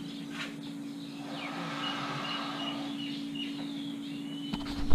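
Birds chirping, a quick run of short high calls, over a steady low mechanical hum, with a brief bump near the end.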